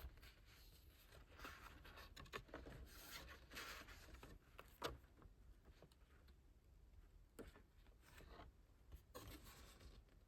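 Faint rustling and scraping of album packaging and its printed contents being handled, with a few soft clicks, the sharpest about five seconds in.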